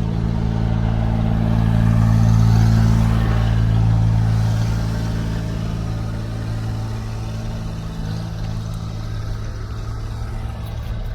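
A truck's engine running at low revs nearby, growing louder about two seconds in and then easing off again.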